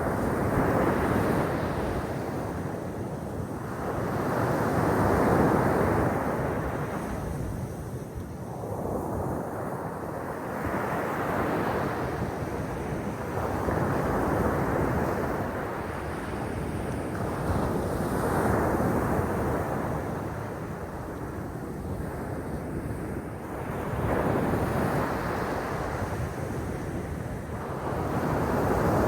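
Sea waves breaking and washing on the shore, swelling and falling back every four to six seconds, with some wind on the microphone.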